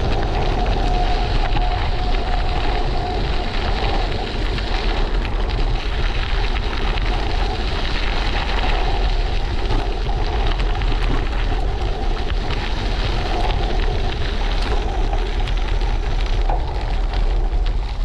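Wind buffeting the microphone of a bike-mounted action camera while riding, mixed with steady tyre and road noise.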